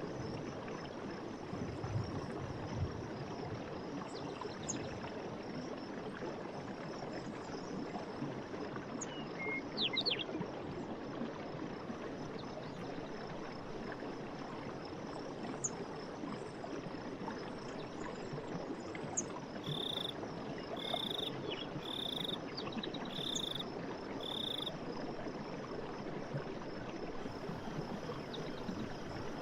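Steady rush of running stream water with scattered short bird chirps; about twenty seconds in, an animal gives five evenly spaced short calls about a second apart.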